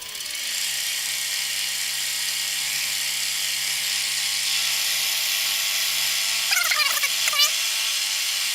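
Bridgeport milling machine running with a steady hum and hiss as its cutter works a steel block. A falling tone comes right at the start, and a few short squeaks follow about seven seconds in.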